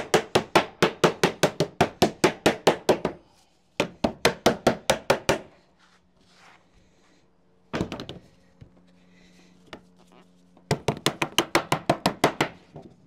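Rapid hammer blows on a setting stick, dressing sheet lead into shape, about five or six taps a second. They come in several runs with short pauses between.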